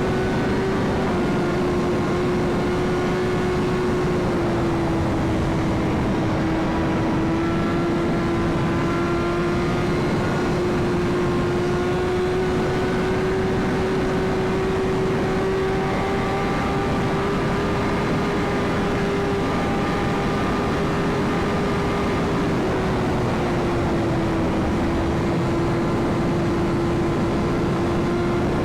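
BMW S1000RR inline-four engine running at a steady high-speed highway cruise, its note holding one pitch with slight dips about five seconds in and again near the end. Steady wind rush runs underneath.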